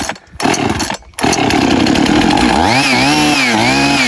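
Two-stroke Husqvarna 550 chainsaw being hot-started: it fires, cuts out briefly about a second in, then catches and runs. Near the end it is revved several times, the pitch rising and falling with each blip of the throttle.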